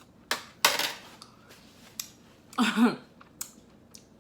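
Handling clatter of tableware: a few sharp clicks and one louder, noisy clatter lasting about half a second, early on. A short voiced hum or murmur comes in the middle.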